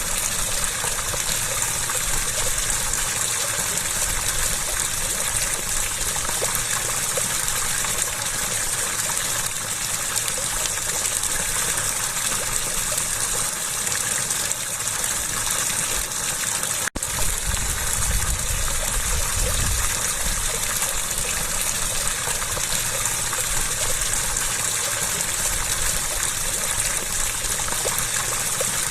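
Running water gushing and splashing steadily, a continuous rushing hiss, with a brief break about seventeen seconds in.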